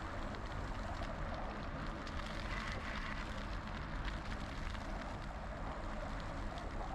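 Steady wind rumble on an action camera's microphone while riding a bicycle, mixed with tyre noise and faint irregular clicks.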